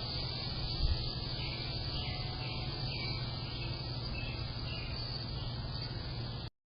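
Outdoor pasture ambience: a steady low hum and hiss with faint bird chirps, a brief low thump about a second in, and the sound cutting out abruptly near the end.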